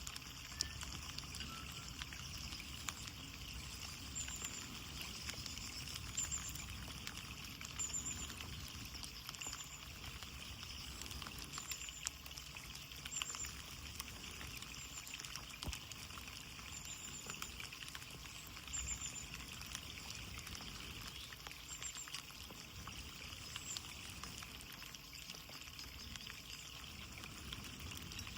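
Steady rain on a window, with many small drops ticking through a constant hiss. A short, high chirp of two or three notes repeats every second or two, stopping some seconds before the end.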